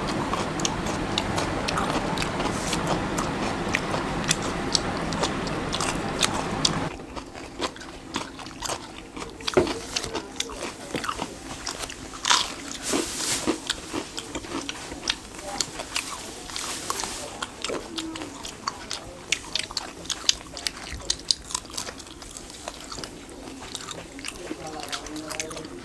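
Close-up eating of an egg burger: bites, soft crunches and wet chewing clicks, irregular throughout. A steady background hum underlies the first seven seconds or so and cuts off suddenly.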